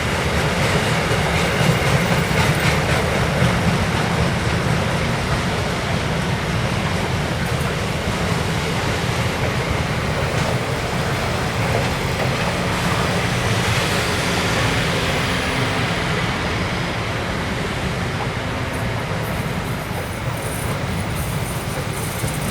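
Freight train rolling past, a steady noise of steel wheels running on the rails.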